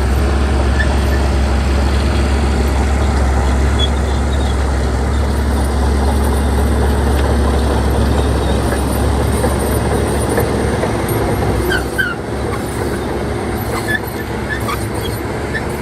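Heavy diesel earthmoving machinery running with a deep, steady rumble, its lowest drone easing off about three-quarters of the way through.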